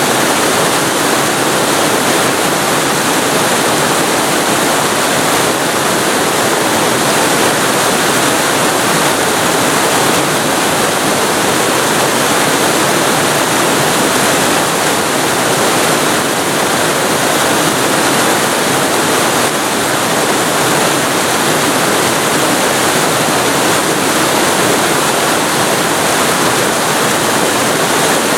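Waterfall recorded very close to the falling water: a loud, steady rush with no let-up.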